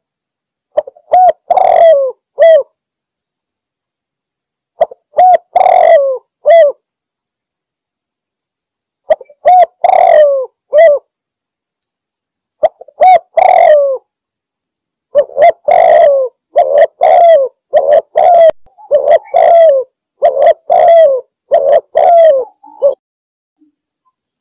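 Spotted dove (tekukur) cooing loudly in short phrases of a few coos, with pauses of a second or two between them and a longer run of coos in the second half. It is the calling used to draw in a rival dove.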